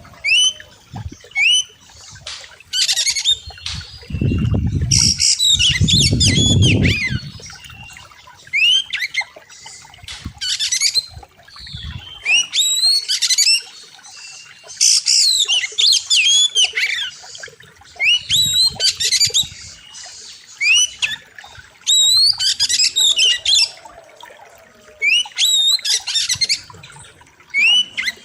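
Oriental magpie-robin singing loud, sharp phrases of whistled notes and quick rising and falling glides, in bursts every second or two. A low rumble sounds under the song for a few seconds about four seconds in.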